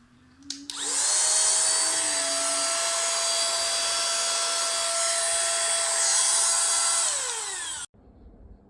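Coloisa 5-in-1 cordless vacuum cleaner and blower switched on with a click: its high-speed motor spins up and runs with a steady high whine over a loud rush of air. Near the end it winds down, falling in pitch, then cuts off abruptly.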